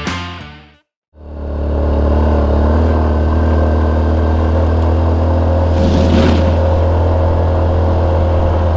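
Music cuts out within the first second, then after a short silence a motorcycle engine runs steadily at cruise, a constant low drone. A brief rush of noise comes about six seconds in.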